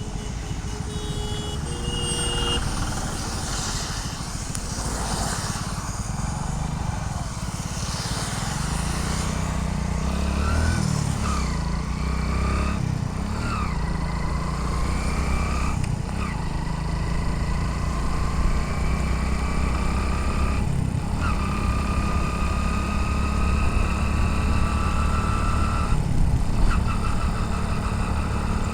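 Motorcycle engine running under way, heard with wind and road noise. Its whine climbs slowly and breaks off briefly three times, picking up again after each break.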